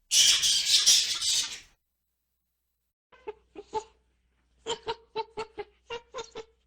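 A loud, harsh noisy burst lasting about a second and a half, then a chicken clucking in short quick notes, about three or four a second.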